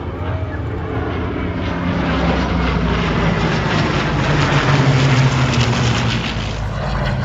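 Airplane engine as a plane flies past: the steady engine note grows louder to a peak about five seconds in, then eases off.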